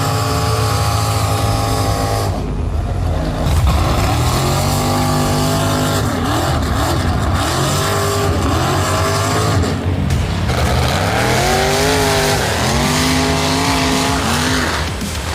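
Mud-bog truck's engine at full throttle, its pitch surging up and down again and again in hard revs.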